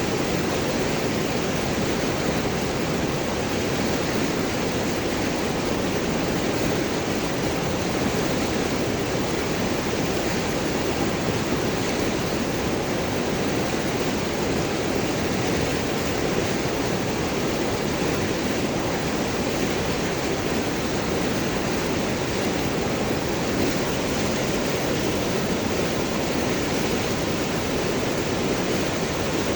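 River water flowing and gurgling over large rocks, a steady even rush.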